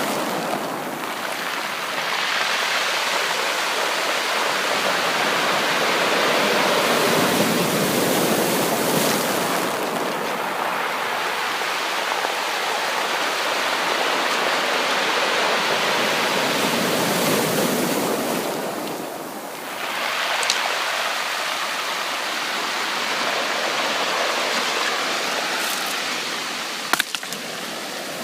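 Sea waves breaking and washing on the shore, a dense rushing noise that swells and eases about every nine seconds. A few sharp clicks near the end.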